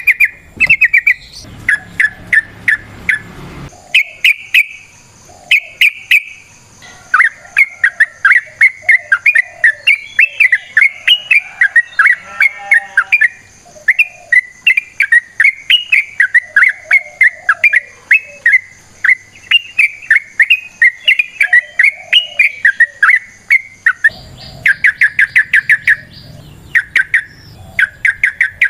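Yellow-vented bulbul (trucukan) singing a long, rapid run of chirping notes: short bursts at first, then one long unbroken stretch, then short bursts again near the end.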